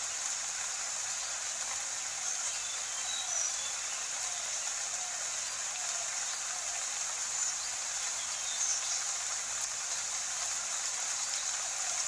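Steady rain falling, an even hiss, with a few faint short high chirps about three and a half, seven and a half and eight and a half seconds in.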